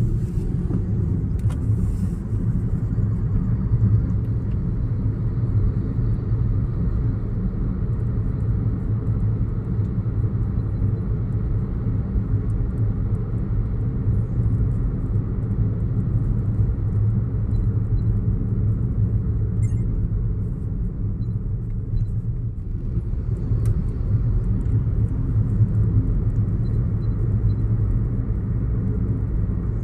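Car driving along a street: a steady low rumble of engine and tyres.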